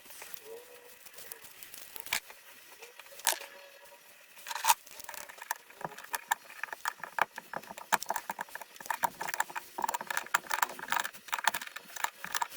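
Small clicks, taps and rattles from hands working on small pump parts. The clicks are scattered at first, then come in a quick, dense run from about halfway.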